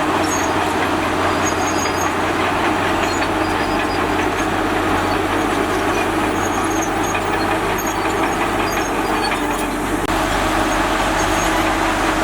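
Diesel bulldozer working, its engine running steadily with scattered short high squeaks and clicks over the noise.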